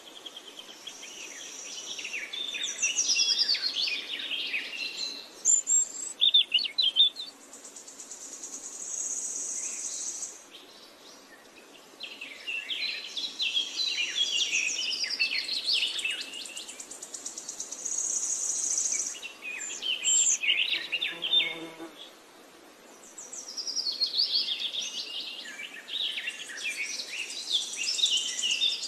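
Birds chirping and trilling in busy bursts of a few seconds, with short lulls between them.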